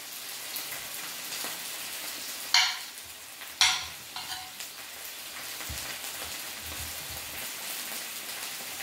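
Pork belly and vegetables frying in an electric skillet, a steady sizzling hiss. About two and a half seconds in, two sharp knife strokes about a second apart come from the knife peeling the rind off a piece of cooked kabocha squash.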